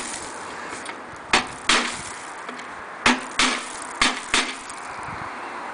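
Sharp knocks or taps in three quick pairs, each pair about a third of a second apart, over a steady background hiss.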